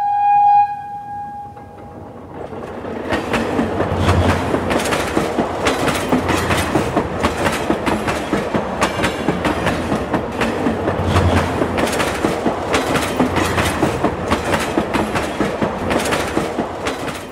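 A train sounds one short horn note, then rolls along with a rapid, rhythmic clickety-clack of wheels over rail joints that builds up over the first few seconds and then runs on steadily.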